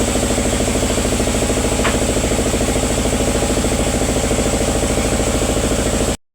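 Sawmill's engine running steadily with a fast, even pulsing beat; the sound cuts off suddenly near the end.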